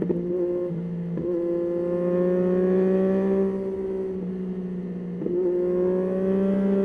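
Yamaha Tracer 9's 890 cc inline three-cylinder engine pulling under load on the move, its pitch climbing slowly, with brief breaks for gear changes near the start, about a second in, and again around five seconds in.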